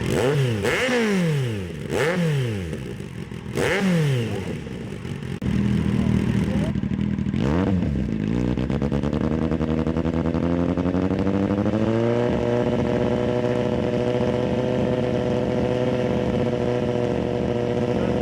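Kawasaki Z800's inline-four engine through an IXIL X55 aftermarket exhaust: three quick throttle blips, each rev rising and falling back, then idling, one more blip, then revs climbing slowly for about four seconds and held steady at high rpm.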